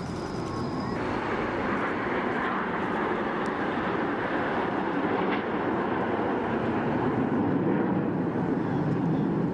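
Aircraft engine noise at an airshow: a loud, steady rush that holds through, strongest in the lower range and building slightly near the end.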